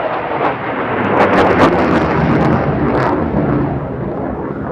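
Single-engine F-16 fighter jet making a low display pass: loud jet noise with a ragged crackle. It builds to its loudest about one to two seconds in and begins to ease off near the end.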